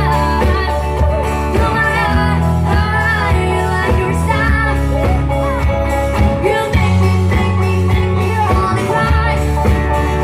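A live band plays loudly, with a heavy bass line, guitar and a singer's voice over it.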